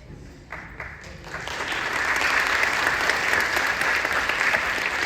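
Audience applauding: a few scattered claps about half a second in, swelling into full, steady applause by about two seconds.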